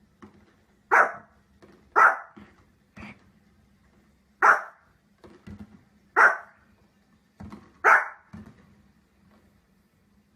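A dog barking: five loud, short single barks spaced one to two seconds apart, with a few quieter barks or yips between them.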